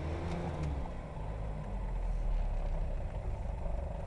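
Mitsubishi Pajero 4x4's engine running at low speed, heard from inside the cab while driving over a rough track. It is a steady low drone, with its note shifting slightly in the first second or two.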